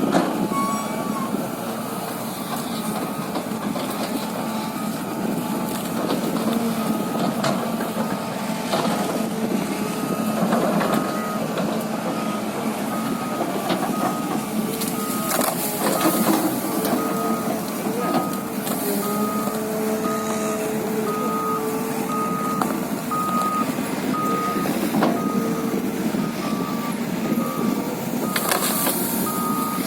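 Excavator engine running steadily under load, with its warning alarm beeping at an even pace through the second half. A few sharp cracks and knocks stand out over the engine.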